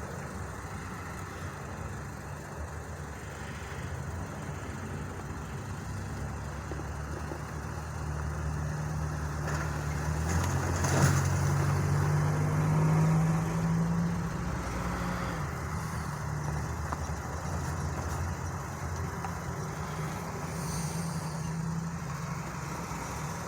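Motor vehicle engine running steadily with a low hum that grows louder for several seconds midway, with one sharp click near the loudest point.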